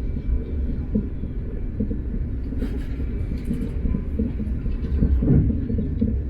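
Train running at speed, heard from on board: a steady low rumble of wheels on rail, with a short spell of rattling clicks near the middle and heavier thuds near the end.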